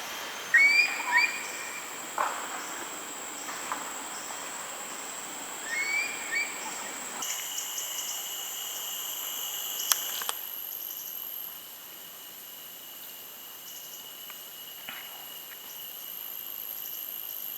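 Tropical forest ambience: a steady, high-pitched insect drone, with a bird giving short rising calls in quick pairs twice in the first half. A single sharp click sounds about ten seconds in.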